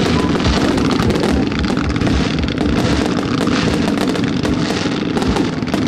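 Fireworks display firing continuously: a dense run of bangs, pops and crackle from aerial shells bursting and fans of stars launched from the ground, with no pause.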